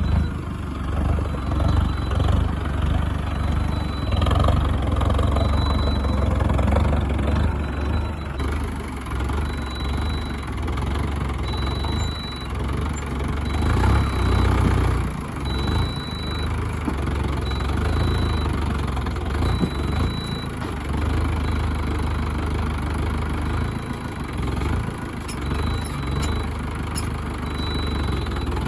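Farm tractor diesel engine running with a heavy low rumble, its level rising and falling as it works a front loader.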